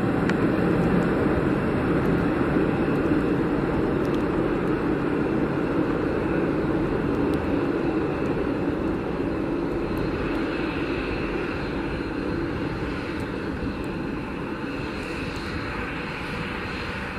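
Jet aircraft engines running on the ground, a steady rumble that slowly fades, with a faint high turbine whine coming in from about ten seconds in.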